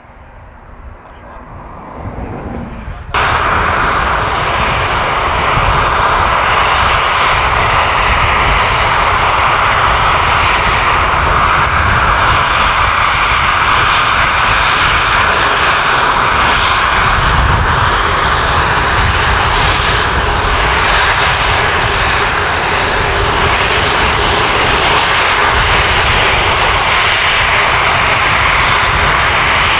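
Aircraft engines running loud and steady, starting abruptly about three seconds in after a quieter opening.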